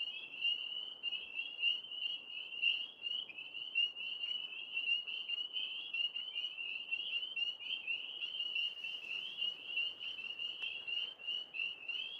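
A chorus of many tree frogs calling together, a dense, continuous mass of overlapping high-pitched pulsed trills.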